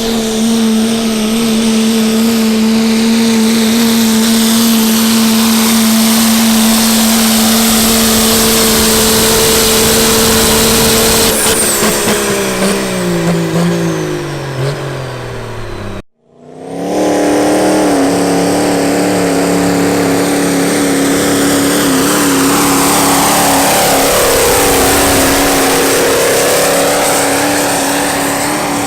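Diesel truck engine held at steady high revs, then winding down over a few seconds. After an abrupt cut, another engine runs at steady high revs with a slight wavering in pitch.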